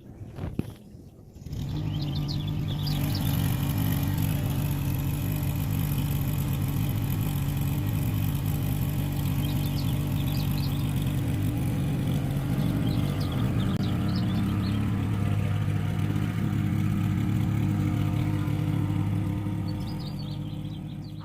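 A motor engine running steadily with a low hum, starting about a second and a half in after a single click, and fading near the end. A few faint high chirps sound over it.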